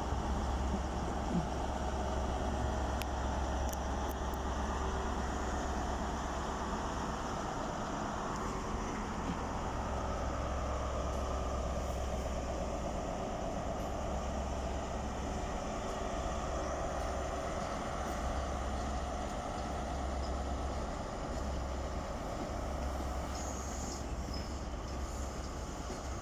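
High Speed Train set hauled by Class 43 diesel power cars pulling out of the station: a steady diesel rumble and the coaches rolling by.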